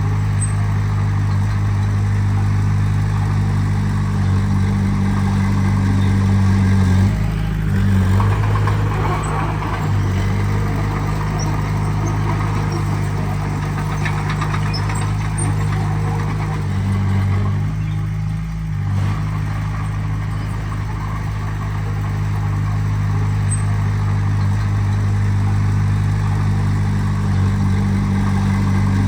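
Diesel engine of heavy earthmoving equipment running steadily, its pitch shifting about seven seconds in and again near eighteen seconds.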